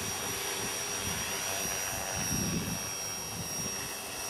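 Align T-Rex 250 electric RC helicopter in flight, its motor and rotors giving a steady whine, with wind gusts buffeting the microphone.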